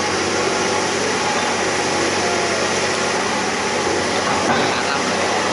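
Excavator diesel engine running steadily: a constant, even mechanical noise with a low hum.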